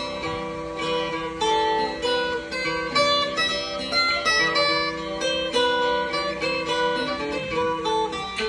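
Acoustic guitar music: plucked notes played one after another, with chords ringing over them.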